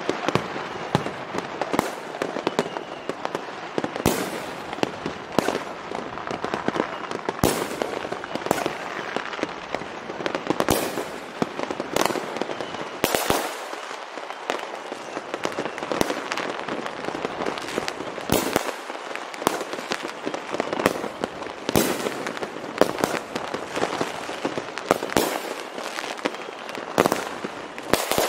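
Fireworks going off: many sharp bangs at irregular intervals, about one to two seconds apart, over a steady wash of noise from smaller explosions.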